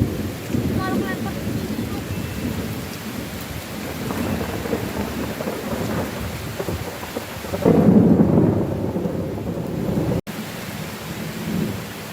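Heavy rainstorm: steady rain with rumbling thunder, and a louder roll of thunder swelling about eight seconds in. Just after ten seconds the sound cuts out for an instant, then the rain goes on more quietly.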